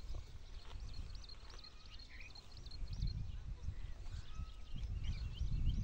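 Small birds chirping over and over in short high notes, several a second, over a low rumble that grows louder about halfway through.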